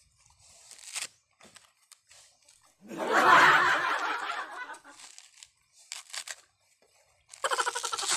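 Dry coconut husk being bitten and torn apart by hand, the fibres crackling and ripping in short bursts, with one long, loud rip about three seconds in. A short laugh near the end.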